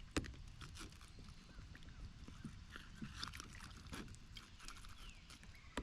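Faint, scattered taps and knocks from gear being handled on a kayak, with one sharper click just after the start and a few faint, short falling chirps.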